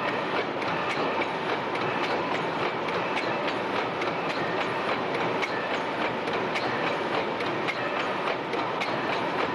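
Four 400 HP Snow tandem natural-gas pumping engines running together under full load, a steady, dense mechanical clatter of many quick clicks overlapping with no pause.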